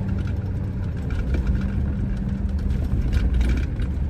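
Truck engine running steadily, a low rumble with a faint steady hum above it.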